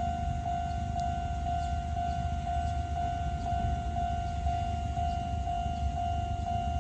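Japanese railway level crossing alarm ringing: a single electronic tone pulsing about twice a second, over a steady low rumble.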